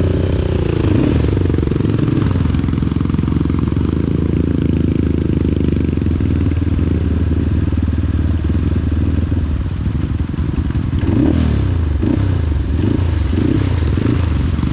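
Trail motorcycle engine running steadily, then revved up and down in several quick surges near the end, with some clattering.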